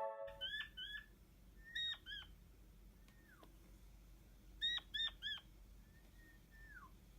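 A king quail calling: short high chirps in pairs and then a quick run of three, with several drawn-out calls that slide down in pitch between them.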